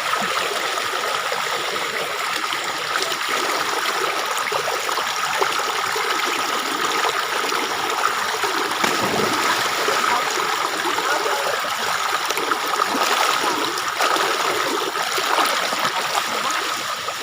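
Water flowing and trickling steadily in a stream.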